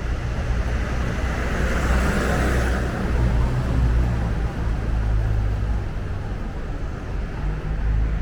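City street traffic: a steady low engine rumble, with a brief swell of hiss from passing traffic about two seconds in.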